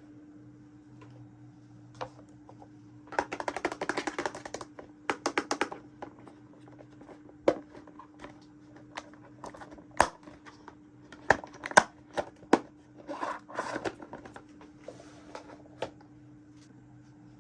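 Small plastic toy pieces being handled: sharp clicks and rapid rattling ticks, with a flurry a few seconds in and scattered single knocks later, over a faint steady hum.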